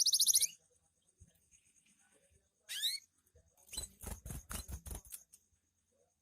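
Canary's rapid, loud trill cutting off about half a second in, then one short falling call near the middle. A quick run of seven or eight soft taps follows.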